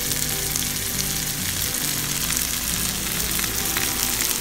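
Beef frying with onions and spices in a pan of hot coconut oil, sizzling steadily with scattered crackles.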